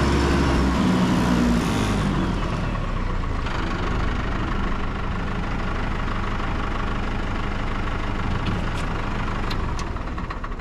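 A vehicle engine running steadily, its pitch dropping about two seconds in, then the sound fading out near the end.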